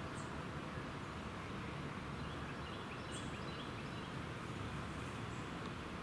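Outdoor ambience: a steady background rumble with faint bird chirps scattered through it.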